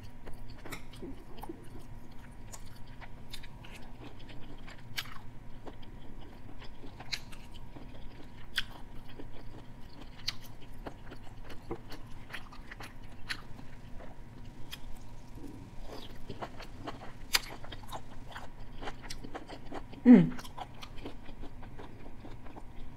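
Close-up mukbang chewing of teriyaki chicken, sautéed okra and shrimp, with many scattered wet mouth clicks. One short louder sound falling in pitch comes about twenty seconds in.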